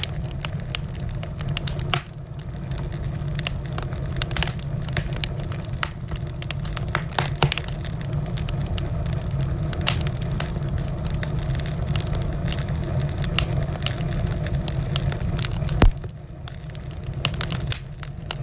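Wood fire burning in a fireplace: frequent sharp crackles and pops over a steady low rumble, with one louder pop near the end.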